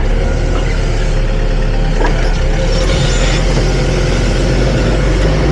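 Hyster H100FT forklift's engine running steadily, close to the operator's seat, with a low rumble and a faint steady whine above it.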